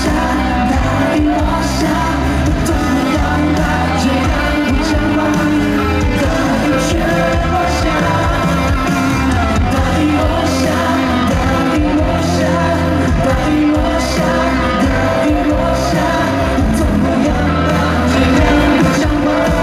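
Live pop concert music: a full band with a steady beat and sung vocals, recorded in a large hall.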